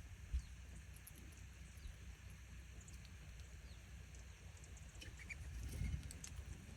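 Red squirrel making scattered faint sharp clicks and a few short high squeaks, more of them in the second half, over a low steady rumble.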